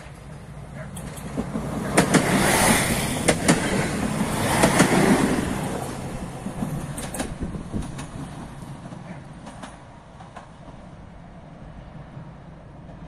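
Koleje Dolnośląskie SA139 diesel multiple unit passing close by, loudest about two to five seconds in. Its wheels click in pairs over the rail joints, and the sound fades as it moves away.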